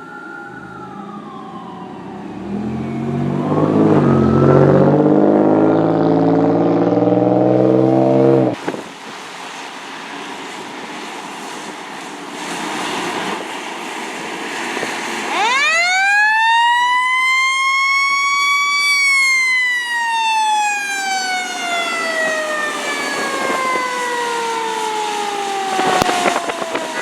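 Fire truck siren falling in pitch, then a loud, low air horn blast of about six seconds that cuts off sharply. Later a fire truck siren winds up quickly to a high pitch and then winds down slowly and steadily.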